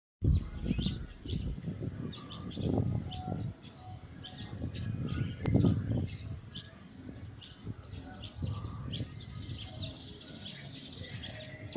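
Small birds chirping and twittering in short repeated calls, over a steady high-pitched hum, with irregular low rumbles of wind or handling on the microphone.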